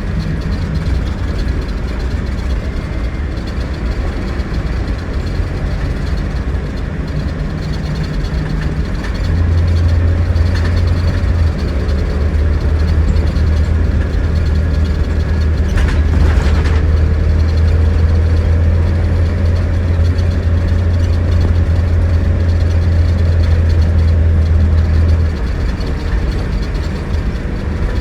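Scania DC09 9.3-litre five-cylinder diesel of an Irizar Century coach running on the road, with a steady low drone that grows louder about a third of the way in and eases back near the end.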